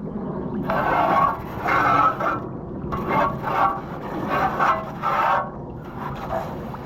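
Garden hose spray hitting the fins of an air conditioner's condenser coil, swept across in a run of about seven rough hissing strokes, each under a second long.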